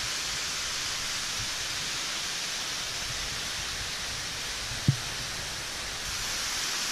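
Steady rushing of a tall waterfall pouring off the cliffs, with wind rumbling on the microphone underneath. One short thump about five seconds in.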